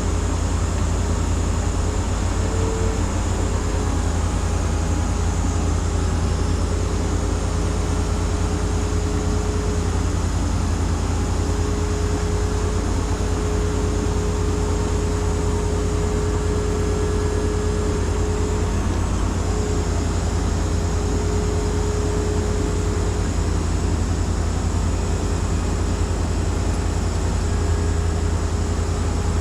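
A heavy engine running steadily with a deep, even rumble and a faint steady whine above it, from the machinery at work lifting a 40-foot shipping container off a truck.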